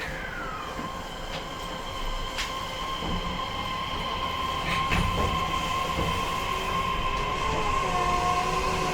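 Interior running sound of a JR East E131-1000 series electric train heard from its motor car: a steady high whine from the traction equipment over the rumble of the wheels. A few sharp clicks from wheels over rail joints, and the rumble grows a little louder near the end.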